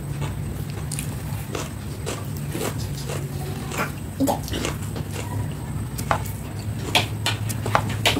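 Close-up eating sounds of someone chewing biryani: irregular wet clicks and smacks of the mouth, a few at a time, over a steady low hum.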